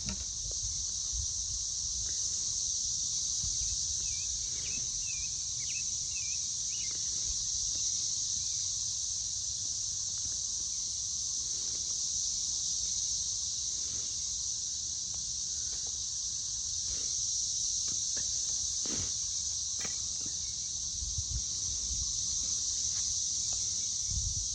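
Chorus of cicadas, a steady high-pitched drone that doesn't let up, with a few faint short chirps about four to seven seconds in.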